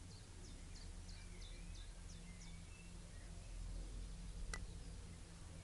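Small birds chirping, a quick run of short high falling notes, over a low outdoor rumble; about four and a half seconds in, a single sharp click of a putter striking a golf ball.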